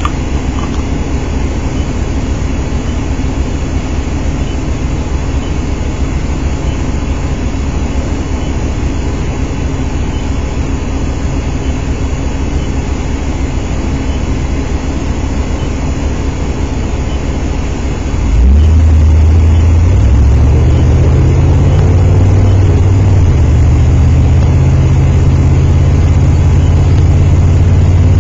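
A car engine running steadily. About eighteen seconds in, the sound gets suddenly much louder, a deep steady drone that shifts pitch slightly a couple of times.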